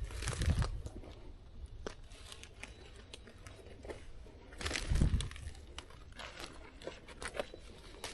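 Close rustling and crackling with many small clicks, louder twice: about half a second in and again around five seconds in.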